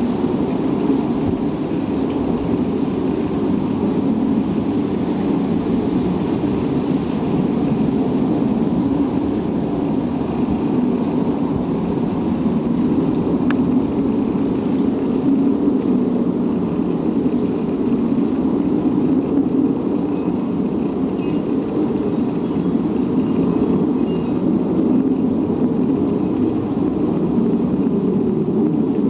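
A loud, steady, low rumbling drone from the sky, the unexplained noise called a "strange sucking noise", wavering slightly without a break.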